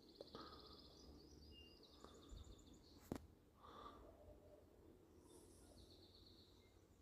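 Faint morning birdsong: small birds trilling in quick repeated notes and chirping. One sharp click about three seconds in.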